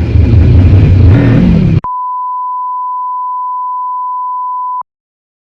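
Cyclone RX401 motorcycle riding noise, engine and wind over the helmet microphone, cut off abruptly about two seconds in. A steady, pure, high beep like a test tone follows and lasts about three seconds before stopping dead.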